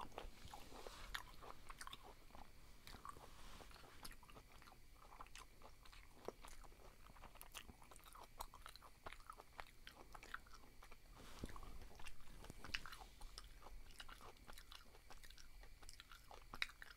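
Close-miked chewing: faint, irregular wet clicks and smacks of a mouth chewing soft food.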